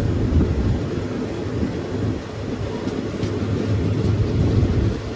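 Passenger train running along the line, heard from on board as a steady low rumble.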